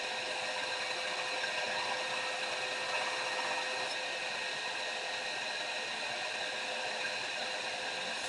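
Electric grinder running steadily as it dresses and sharpens the edge of a hot cut chisel, an even whirring noise with a steady hum.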